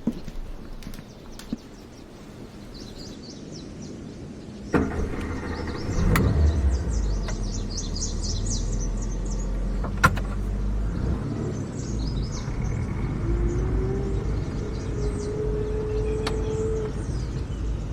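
A sudden thump about five seconds in, then a car engine running with a steady low rumble. Birds chirp in the background.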